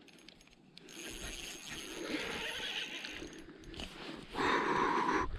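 Fishing reel cranking in a hooked fish, its gears whirring, louder for about a second near the end.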